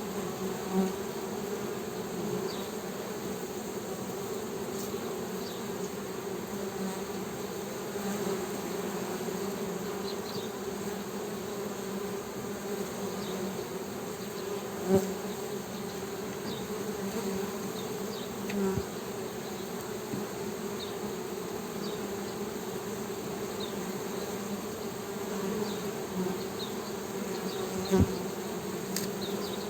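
Honey bees humming, a steady low buzz of many bees together, with a few brief louder bumps scattered through it.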